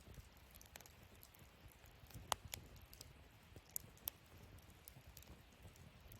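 Wood fire in a fire stand crackling softly, with scattered small pops over a low, steady burning rumble; the sharpest pop comes a little over two seconds in.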